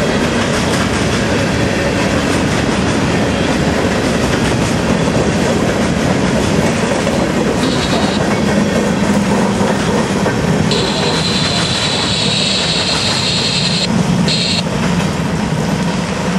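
Freight train cars rolling past close by, wheels clattering steadily over the rails, with a high steady squeal from the train for about three seconds after the middle and a short one just after.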